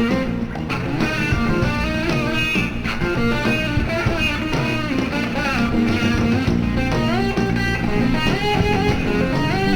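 Live band music: an electric slide guitar plays a gliding lead melody over bass guitar and drums.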